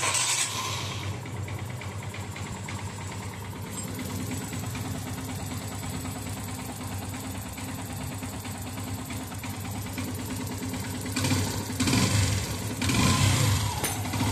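Yamaha FZS V3's single-cylinder engine idling steadily, then revved in a few short blips near the end. It runs without the chain rattle it had before, its cam chain freshly replaced and tensioned.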